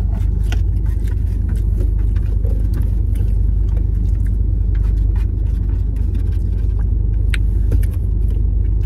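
Steady low rumble of an idling engine, heard from inside a car, with scattered small clicks and rustles of food and containers being handled.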